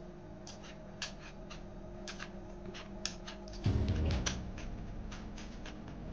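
Close-up mouth sounds of someone chewing a mouthful of cold dressed salad: a run of small wet clicks and smacks, with a louder, lower patch a little past halfway.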